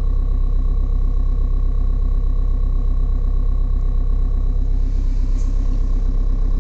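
Opel Astra 1.7 DTI four-cylinder turbodiesel idling steadily after a cold start. The owner blames the glow plugs for its hard cold starting.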